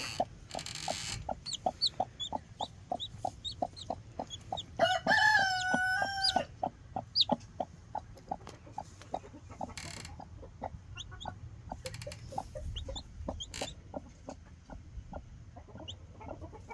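Broody hen clucking steadily, about three low clucks a second, with a newly hatched chick peeping faintly and high above her. About five seconds in comes one longer, drawn-out chicken call, and there is brief rustling now and then.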